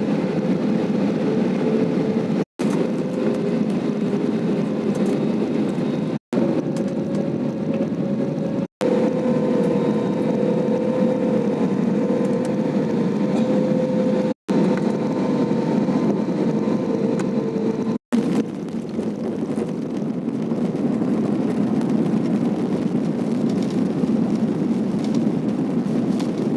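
Airliner in flight: a steady jet-engine drone and rushing air, with a humming tone that wavers slightly in pitch. The sound drops out for an instant five times. The hum fades about two-thirds of the way through, leaving mostly the rush.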